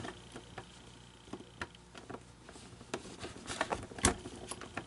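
Scattered small clicks and taps of hands and tools working on the plastic parts of an animatronic figure's mouth, with a sharper click about four seconds in.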